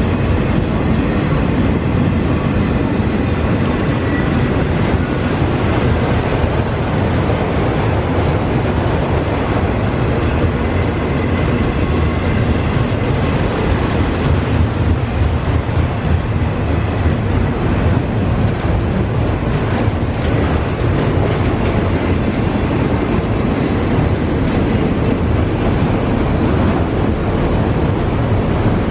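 CSX freight train of empty auto rack cars rolling past on the main line, its wheels and cars making a loud, steady rumble over the rails.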